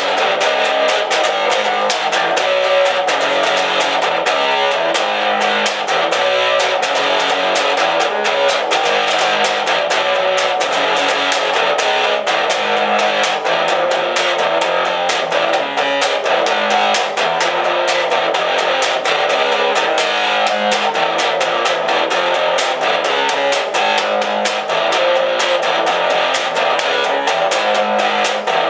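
Instrumental break of a rock song: strummed guitars over bass guitar with a steady beat, no vocals.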